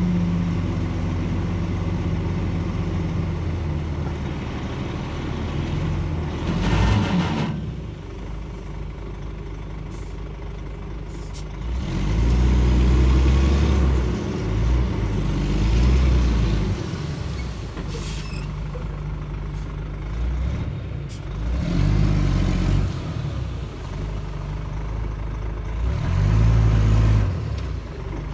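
Shantui DH17-C2 bulldozer's diesel engine working as it pushes soil, its note rising and falling in several surges as the load changes. A short burst of hissy noise comes about seven seconds in, and a few sharp knocks sound later.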